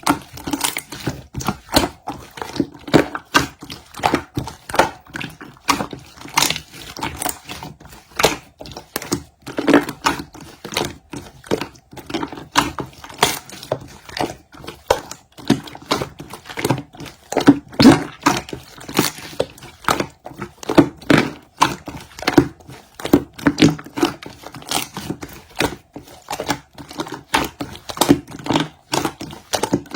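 A dense, irregular run of close-up taps, clicks and crinkles, several a second, as from hands handling small objects near the microphone.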